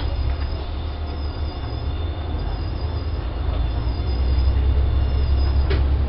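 Diesel railcar heard from inside the driver's cab, its engine hum growing louder about four seconds in as it pulls away from a station, with wheels running over the rails and a single sharp click near the end.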